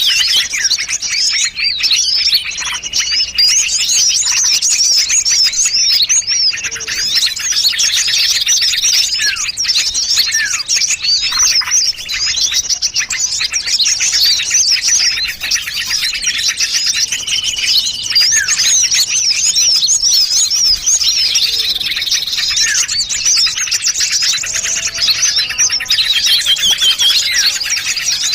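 A dense chorus of many small songbirds calling over one another, with rapid high chirps and trills that never let up. It is a mixed bird-lure (pikat) recording that layers the calls of several small species to draw birds in.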